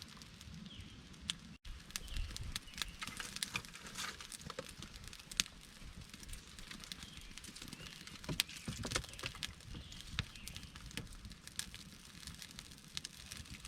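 Campfire crackling and popping irregularly, with a low steady rustle beneath; the sound drops out for an instant about a second and a half in.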